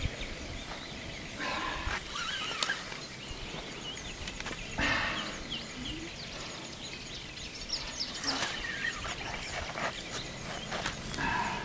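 Quiet outdoor ambience: small birds chirping, with a few brief faint calls about a second and a half in, around five seconds in, and near the end.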